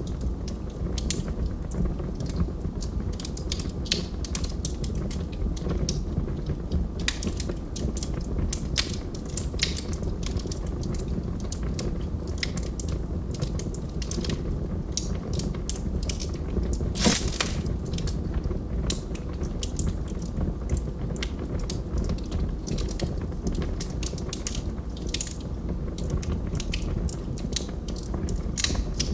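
Wood fire burning in a fireplace: a steady low rumble of flame with frequent irregular crackles and pops from the logs, one pop louder than the rest about two-thirds of the way through.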